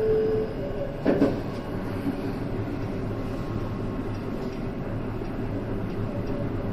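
JR West 223-series electric train running on the line, heard from behind the cab: a steady rolling rumble, with a steady whine that dies away just after the start and a sharp double knock about a second in.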